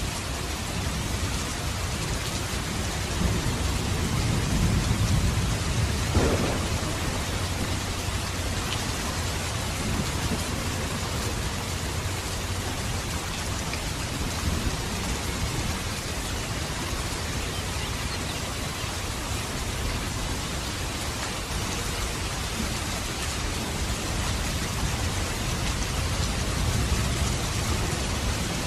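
Steady rain, with a low rumble of thunder swelling and peaking about six seconds in.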